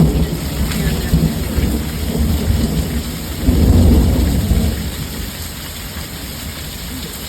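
Thunder rumbling over steady heavy rain; the rumble swells loudly about halfway through, then fades away, leaving the rain alone.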